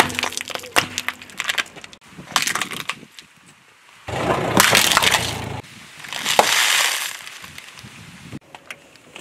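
A car tyre slowly crushing things on asphalt. Plastic eggs crack with a string of sharp snaps in the first few seconds. About four seconds in, a plastic cup of snacks is flattened, giving two long, loud crunches.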